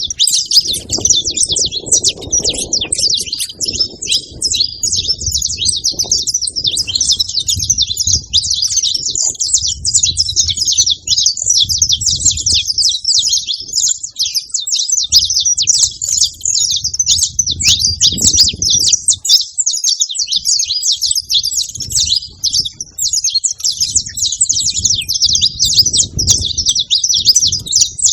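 A flock of saffron finches chirping and calling all at once, a dense, unbroken chatter of many overlapping high calls. A low rumbling noise comes and goes underneath.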